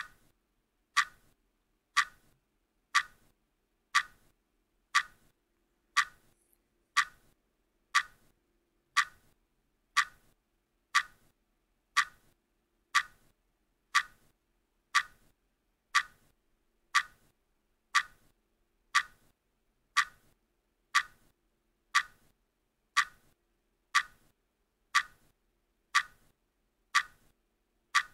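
Countdown timer ticking like a clock, one sharp tick each second.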